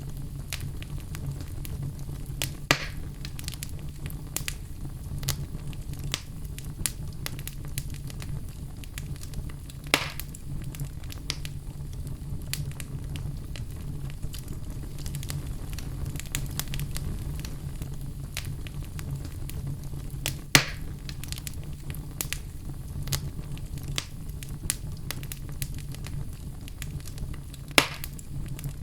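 Wood fire burning in a fireplace, crackling steadily with many small snaps over a low steady rumble. Four louder pops stand out, spread a few seconds apart.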